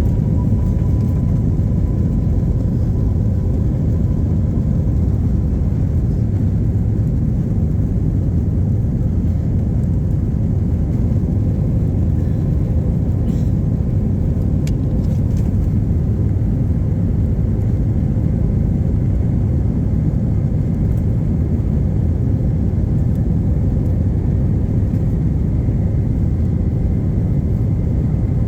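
Airbus A321neo's turbofan engines at takeoff thrust, heard from inside the passenger cabin during the takeoff run and climb: a loud, steady rumble. An engine whine rises at the start, then holds steady.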